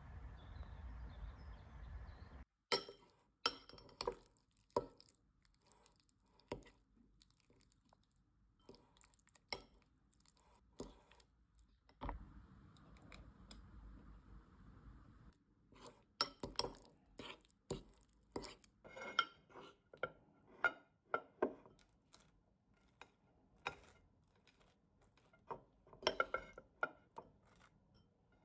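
Scattered light clinks, taps and knocks of dishes and glassware being handled, irregular and sometimes ringing briefly. It follows a couple of seconds of steady outdoor ambient noise that cuts off suddenly.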